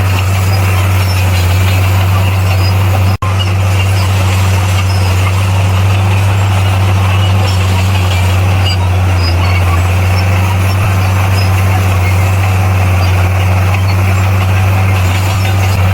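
Heavy diesel engine of earthmoving equipment running steadily at a constant low drone, with a momentary break in the sound about three seconds in.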